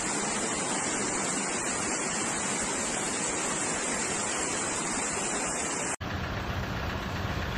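Steady rush of flowing water with no distinct events. About six seconds in it cuts off suddenly and a lower rumbling noise takes over.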